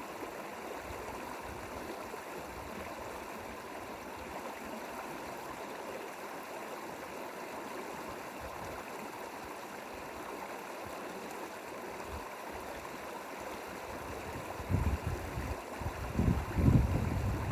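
Mountain valley stream flowing, a steady rushing of water. About fifteen seconds in, irregular low rumbling buffets break in over it, louder than the stream.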